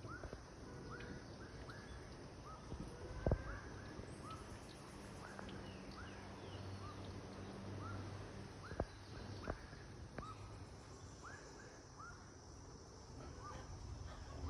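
Faint outdoor ambience with short chirping animal calls that repeat about once a second, and a few sharp knocks.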